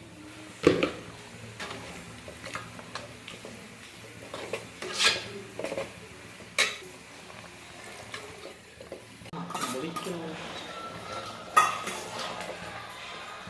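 A spoon stirring curry in a cooking pot, scraping and knocking sharply against the pot a few times, over a faint sizzle.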